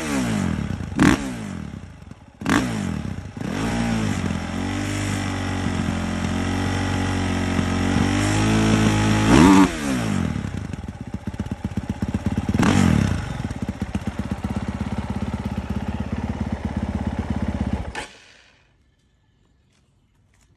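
Honda CRF450R dirt bike's single-cylinder four-stroke engine revved in quick blips, held at high revs for several seconds, blipped once more, then idling until it is shut off about 18 seconds in.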